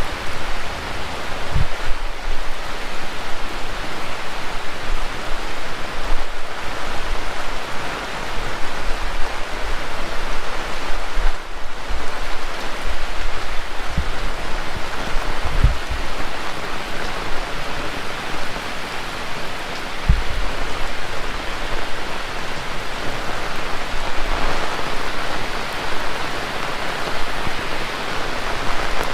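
Heavy rain falling steadily, a dense even hiss, with a few brief low thumps along the way.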